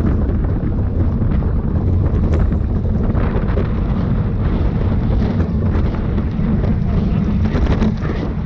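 Steady, loud wind buffeting the microphone, a heavy low rush with scattered small clicks and knocks.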